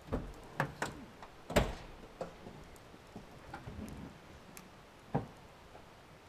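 A few irregular knocks and clicks, as of things being handled and set down, the loudest about one and a half seconds in.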